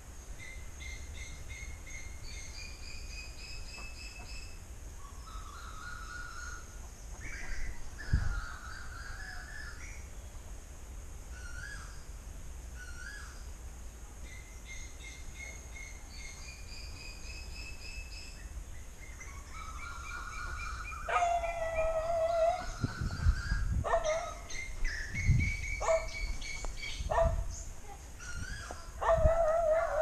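Birds calling in repeated series of short whistled notes. In the last third come louder, wavering cries and a few low thumps.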